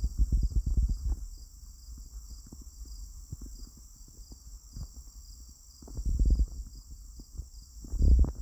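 Insects chirping steadily in a high, evenly pulsing chorus, with clusters of dull footsteps and rustling thumps at the start, about six seconds in, and again near the end.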